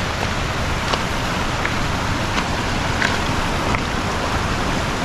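Steady rushing of a river and nearby waterfall, with a few small splashing ticks over it.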